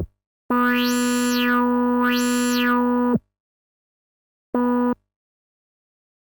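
SxLab Fortress synthesizer playing a held note of about two and a half seconds, its bright overtones sweeping up and down twice, then a single short note after a pause.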